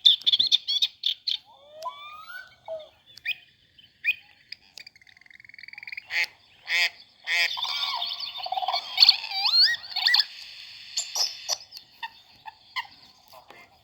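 Recorded bird calls played from a sound book's small speaker: a run of whistles, trills and chirps, several gliding up and down in pitch, busiest from about six to ten seconds in.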